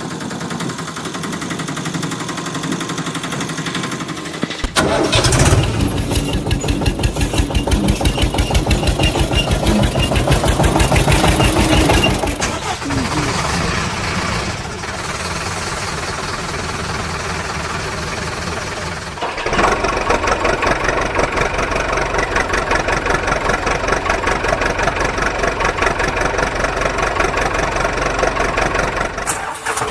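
Vehicle engine sounds in several abruptly changing stretches: a steady run, then a louder fast, even chugging from about five seconds in to about twelve seconds in, then quieter running, and a louder steady run again from about twenty seconds in.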